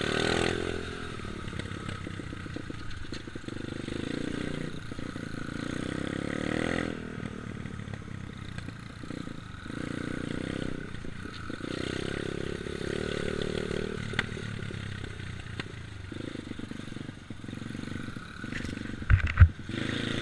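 Dirt bike engine running as it is ridden, its pitch rising and falling with the throttle. A few loud low thumps near the end.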